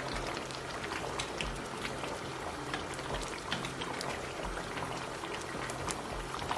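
Nsala soup, thickened with yam, bubbling in a pot: small pops and blips scattered over a steady hiss, with a faint low hum underneath.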